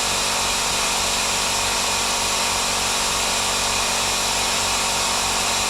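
Oxy-acetylene torch flame hissing steadily while it heats a small spot on the steel body panel for heat-shrinking, with a motor humming steadily under it.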